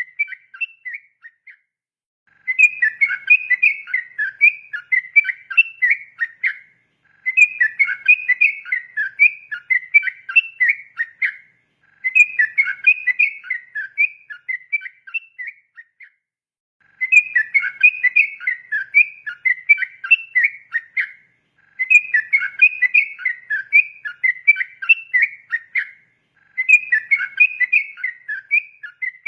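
Yellow-vented bulbul (trucukan) singing its long, rapid 'ropel' song: dense bubbling, chattering phrases in bouts about four seconds long with short pauses between them, about six bouts in turn.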